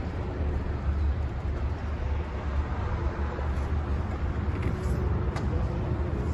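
A truck's diesel engine idling, a steady low rumble, with a couple of faint clicks about five seconds in.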